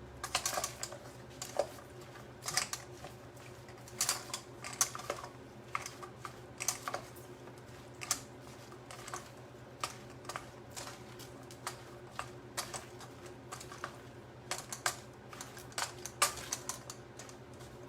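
Wooden spurtle mixing a salad of chopped tomato, cucumber and red onion in a bowl: irregular clicks and taps as it knocks against the bowl.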